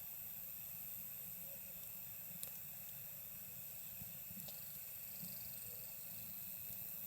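Campfire burning with a steady low hiss and a few sharp wood pops, the clearest about two and a half seconds in, over a steady chorus of night insects.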